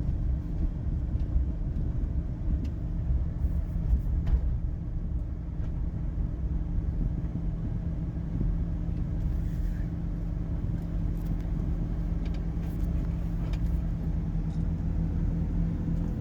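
A taxi driving along, heard from inside the cabin: a steady low engine and road rumble, with a few light clicks and rattles.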